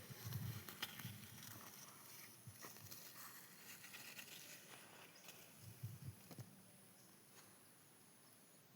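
Near silence: faint outdoor ambience with a few soft low thuds and scattered faint clicks.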